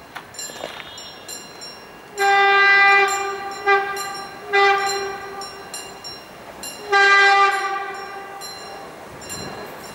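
Siemens Desiro class 460 electric multiple unit sounding its horn: a single steady tone blown four times, a long blast then a short one, a medium one and a last blast a couple of seconds later.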